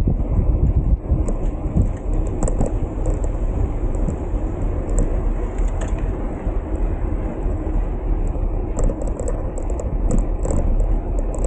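Wind rumbling and buffeting on the microphone of a moving bicycle, with road noise underneath; the level rises and falls unevenly throughout.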